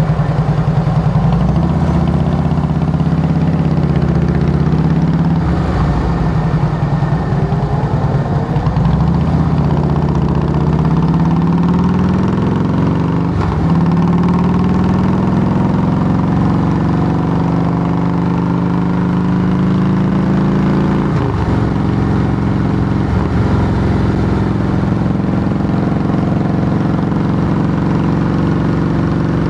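2008 Harley-Davidson Heritage Softail Classic's Twin Cam 96 V-twin running loud through Samson true-dual fishtail exhaust pipes. The note climbs gradually through the middle, then holds steadier with two brief dips in pitch in the second half.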